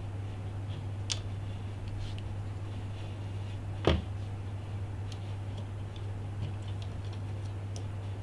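Small scattered clicks and taps of tools and parts being handled during an iPhone repair, with one sharper click about four seconds in, over a steady low hum.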